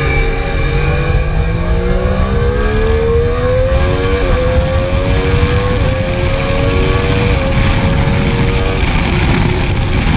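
Triumph Daytona sport bike's engine heard from the onboard camera, pulling hard under acceleration. Its note climbs steadily, with short dips about four, six and seven and a half seconds in, then holds steady, over heavy wind rush.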